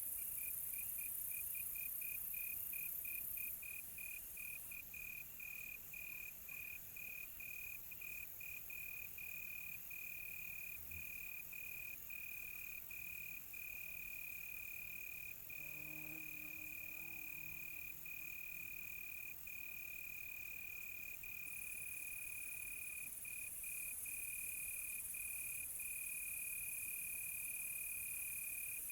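Crickets trilling in a night chorus: one high, steady trill with short regular breaks, pulsing quickly at first and then running almost unbroken, over a high insect hiss. A faint low call sounds briefly about halfway through.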